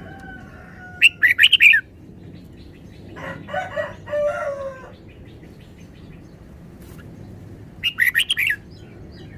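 Red-whiskered bulbul singing two short, quick, bright phrases, one about a second in and one near the end. Between them a rooster crows once, ending on a falling note.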